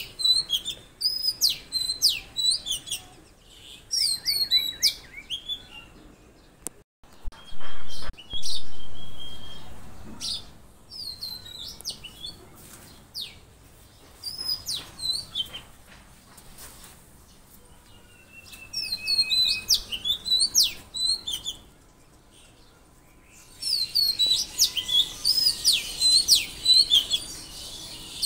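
Songbirds chirping in quick bursts of short, high, sweeping notes, with quieter gaps between the bursts and a dense flurry near the end. Two brief sharp clicks come about a quarter of the way in.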